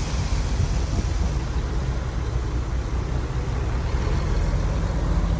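Heavy diesel earthmoving machinery running steadily: a deep, constant engine rumble with a haze of mechanical noise over it.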